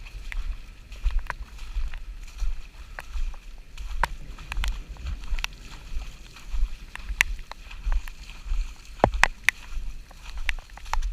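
Walking in rain: wet footsteps sloshing about once a second under a low rumble of wind on the microphone, with scattered sharp ticks of raindrops.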